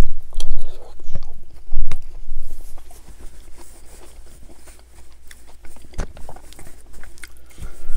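Close-miked chewing of a mouthful of Spanish rice, with wet mouth clicks that are loudest in the first two seconds and then grow quieter and sparser. There is a single sharp click about six seconds in.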